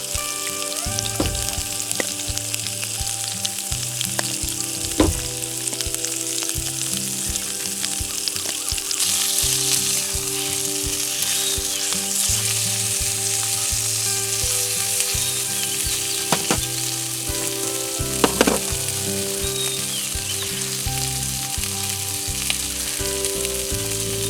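Food sizzling in a frying pan, the sizzle growing louder about nine seconds in, with a few sharp clicks of a utensil against the pan.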